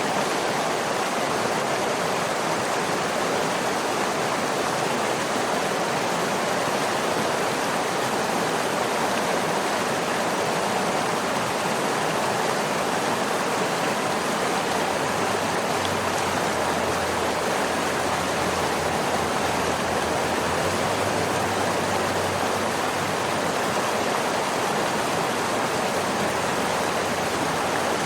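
Waterfall: a steady, even rush of falling water, with no changes or separate splashes.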